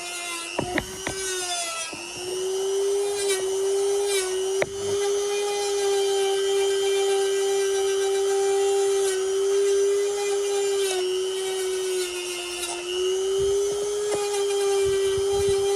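Dremel-style rotary tool running at a steady high-pitched whine as its bit grinds surface rust off a steel axe head. Its pitch rises about two seconds in and then dips slightly and recovers a few times as the bit is pressed against the steel. A few sharp clicks come in the first five seconds.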